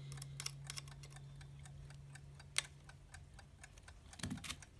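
US Time Waterbury alarm clock's movement ticking with rapid, even beats, running again after repair but not yet regulated. One tick about halfway through stands out louder than the rest.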